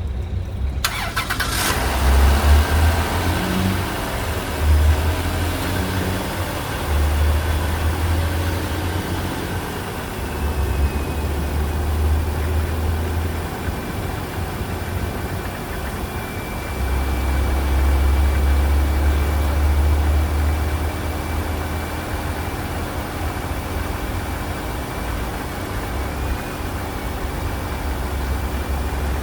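The minivan's 3.8-litre V6 starting about a second in, then idling, its low rumble swelling and easing now and then. A thin, steady high whine runs under it from about halfway on.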